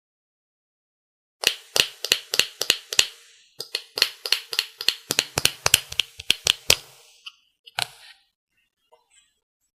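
A quick series of sharp taps or clicks on a hard object, about three to four a second, in two runs with a short break between them, and one last click near the end.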